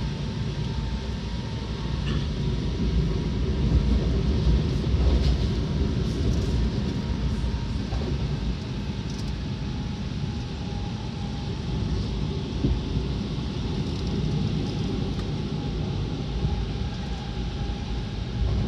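Seibu 6000 series electric train running at speed, heard from inside the car: a steady rumble of wheels and running gear, with a faint steady tone above it and a few light clicks.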